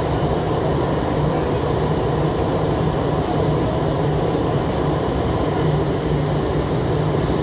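MTR SP1900 (IKK) electric train running along the line, heard from inside the carriage: a steady rumble of wheels on rails with a constant low hum.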